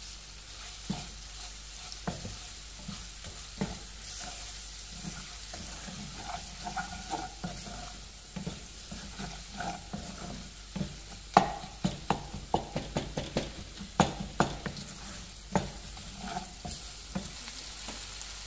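Wooden spatula stirring and scraping onions and tomatoes frying in oil in a frying pan, over a steady sizzle, with many sharp knocks of the spatula against the pan that come thick and fast in the second half.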